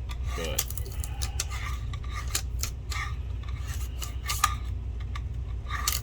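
Scattered light clicks, scrapes and rubbing as a sticker is worked off a projector's plastic case by hand, over a steady low hum.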